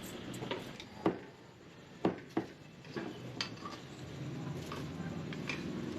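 Scattered clinks and knocks of dishes and utensils as food is prepared at a stall, a few sharp ones around two seconds in, over a low steady hum.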